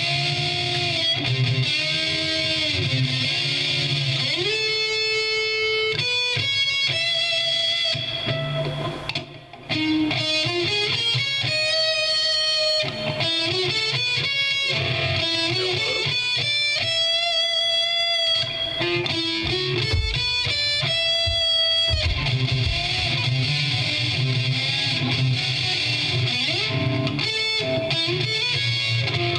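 Electric guitar played through an amplifier, picking out single-note lines with bends and slides. There is a short drop-out about nine seconds in, and a steady low hum runs underneath.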